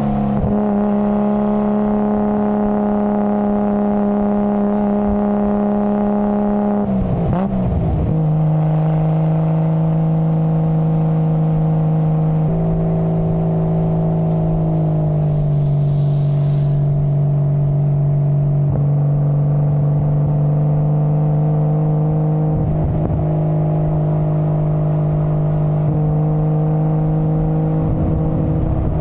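Nissan Skyline GT-R R33's RB26 twin-turbo straight-six running under way at steady revs. About seven seconds in the note breaks and settles to a lower steady pitch, as in an upshift, with small further drops and short breaks in the note later on.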